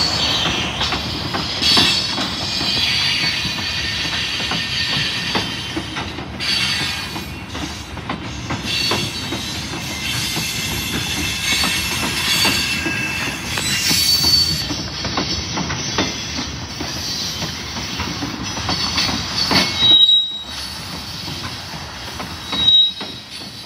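Freight train's autorack and tank cars rolling past close by: a steady rumble of steel wheels on rail, with clicks at the rail joints and a high wheel squeal that comes and goes.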